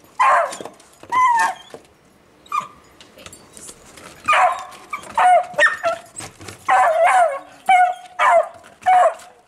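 Dog barking and yipping in a run of about a dozen short, high-pitched barks, some in quick pairs, with gaps of a second or so between them.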